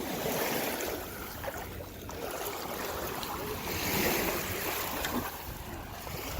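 Sea waves washing onto the beach, a steady rushing noise that swells and eases.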